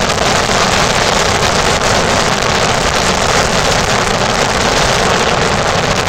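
Motorboat under way, its engine running steadily, heard as one loud, even noise mixed with wind.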